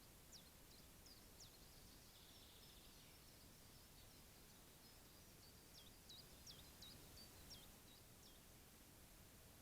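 Faint bird calls: short, high notes that each sweep quickly downward, a few in the first second or so and a run of about eight in the second half, over a steady low hiss.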